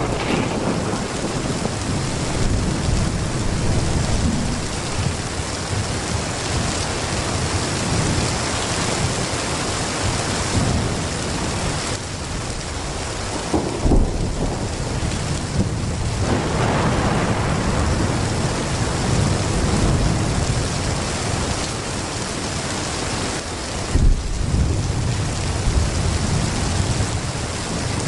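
Heavy rain pouring steadily, with low rolling thunder and two sharp thunder cracks, one about halfway through and one near the end.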